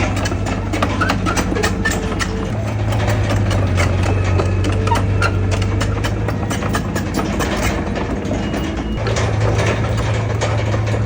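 Bulldozer's diesel engine running under varying load, its low note getting stronger about two and a half seconds in and again near the end, with frequent metallic clanks and clicks and a few short squeaks from the tracks and working gear.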